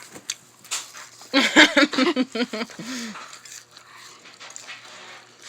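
Noisy, sloppy eating of kale chips: a run of short pitched grunting sounds about a second in, then quieter chewing and crunching.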